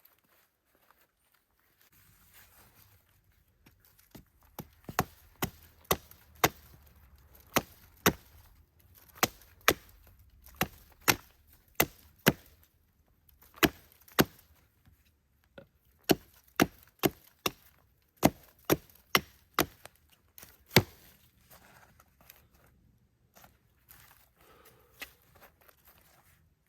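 Wood being chopped by hand: a series of sharp, separate blows, about two a second in short runs with brief pauses.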